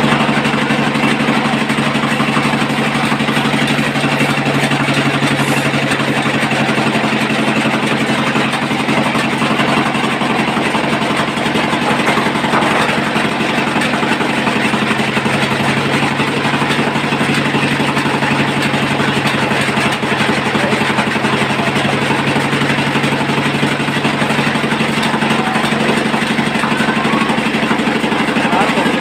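An engine running steadily at a constant speed, with a fast, even firing beat.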